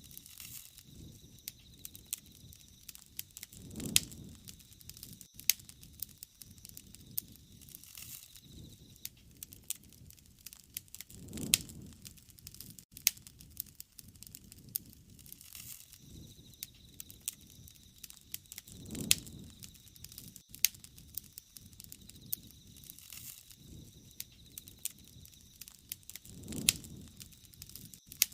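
Wood fire crackling and popping, with frequent sharp snaps. A low, soft swell returns about every seven and a half seconds.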